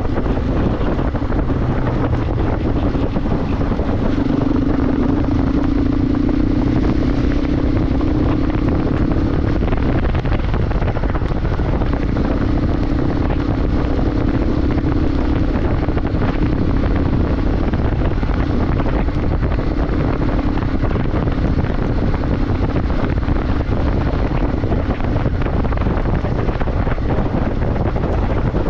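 Motorcycle engine running at a steady cruise, its note holding one pitch and swelling for several seconds at a time, under a heavy, constant rumble of wind on the microphone.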